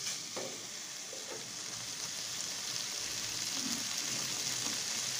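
Dry radish-pod (dingri) and peanut sabzi sizzling in a metal kadhai while a metal spatula stirs and scrapes through it. The sizzle is a steady hiss that grows a little louder.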